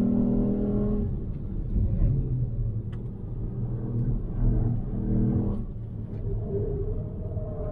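Ford Puma ST's 1.5-litre turbocharged three-cylinder engine heard from inside the cabin, running steadily at high revs, then dropping about a second in as the car slows from about 130 km/h. Its note shifts up and down several times after that over low road rumble.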